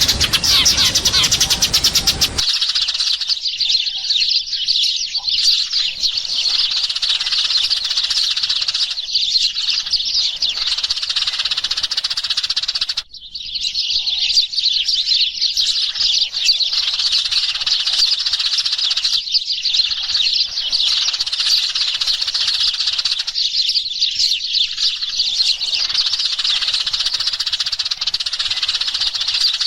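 Dense, unbroken chorus of sparrows chirping, a sparrow lure call for drawing in a flock. For the first two seconds a louder full-range noise runs under the chirps and then cuts off abruptly, and the chirping breaks off briefly about thirteen seconds in.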